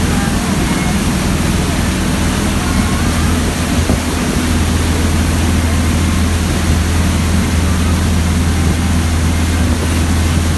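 Sightseeing cruise boat's engine running steadily, a constant low hum with a noisy wash over it.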